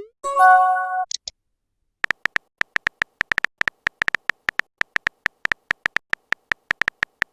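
Phone text-messaging sound effects: a short chime-like message tone just after the start, then a gap, then a long run of quick keyboard-typing clicks, several a second.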